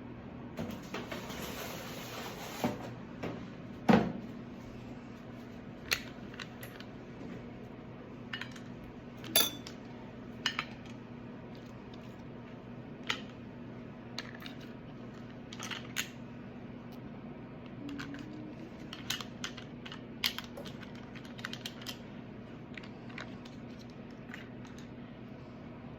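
Scattered kitchen clatter: light clicks and knocks of utensils and dishes over a steady low hum, with a brief rushing hiss near the start.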